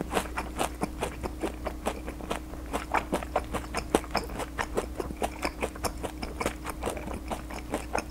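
Close-miked chewing of a crisp-battered, deep-fried, syrup-soaked dessert ball: a quick, irregular run of wet mouth clicks and smacks, about five a second.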